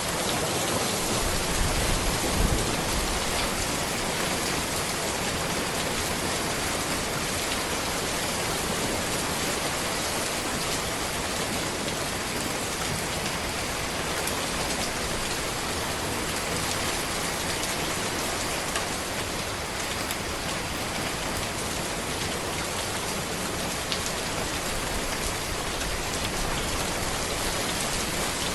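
Steady rain falling on a road and surrounding trees, a dense, even hiss of drops with a few slightly louder drops or splashes.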